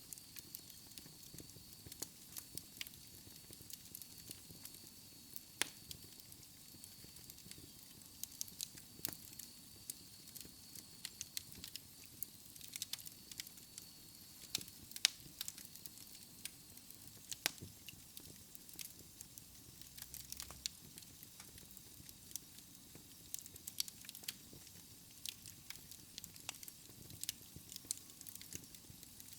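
Wood fire crackling in a fireplace: irregular sharp pops and snaps over a soft hiss of the flames.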